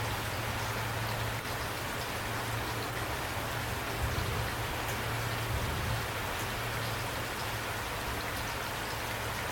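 Steady rain falling, an even hiss with scattered individual drops ticking, over a steady low rumble.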